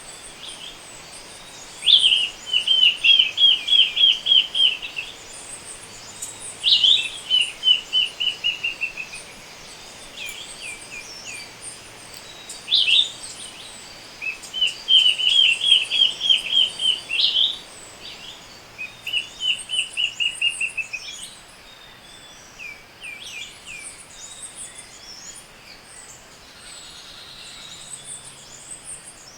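Dawn chorus of tropical forest birds: one bird loudly repeats a song, a sharp high note followed by a fast series of quick notes, while other birds chirp high and thin throughout.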